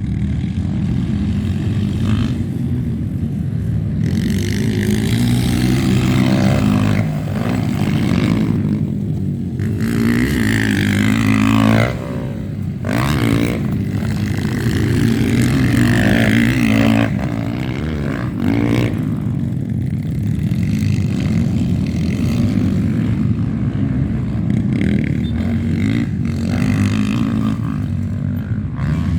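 Motocross motorcycle engines running loudly, their pitch rising and falling over and over as the bikes accelerate and ease off.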